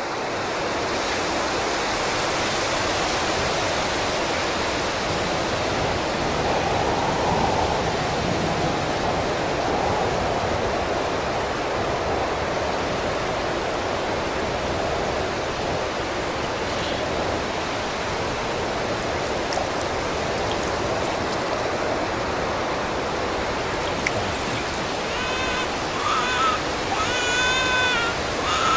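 Strong wind blowing hard into the microphone: a steady, loud rushing noise. Near the end, short wavering high tones rise over it.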